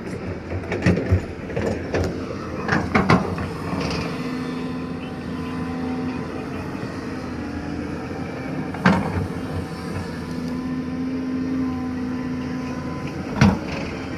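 Doosan DX225LCA excavator's diesel engine running steadily under hydraulic load, its pitch swelling and easing. Several sharp knocks cut through it, the strongest near the start, about nine seconds in and near the end.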